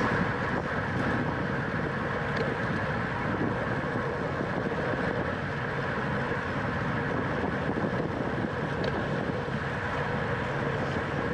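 Steady wind rushing over the microphone of a camera carried at racing speed on a road bike, mixed with tyre and road noise, with a few faint clicks.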